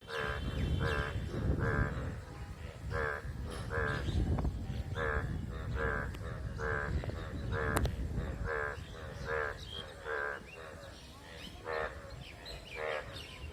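A frog croaking over and over: short, rattling croaks about one to two a second, with a few longer gaps. A low rumble runs underneath, strongest in the first few seconds.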